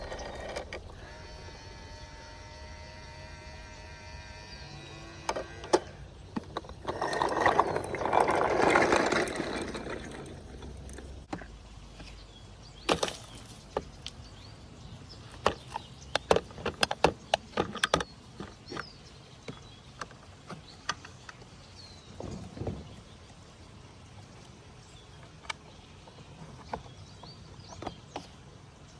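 Plastic toy garbage truck being worked by hand: many sharp clicks and knocks from its mechanism, the densest run in the middle. There is a louder few seconds of rustling noise early on.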